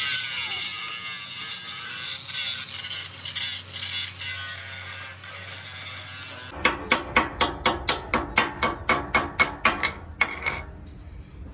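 Metal repair work: a dense, hissing, high-pitched scraping or grinding noise, then a rapid run of sharp metallic strikes, about four or five a second, that stops near the end.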